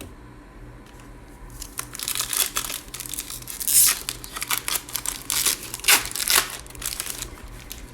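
Plastic trading-card pack wrapper crinkling and tearing as it is opened by hand, an irregular run of crackling that starts about two seconds in and dies away near the end.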